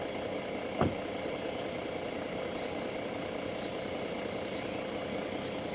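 A steady low hum, like a motor idling, with a single short click about a second in.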